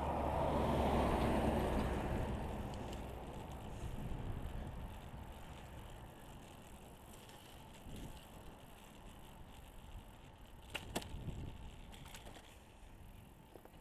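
Bicycle riding along a road: a steady rush of tyre and wind noise, loudest in the first couple of seconds and then dying down, with a few sharp clicks about eleven seconds in.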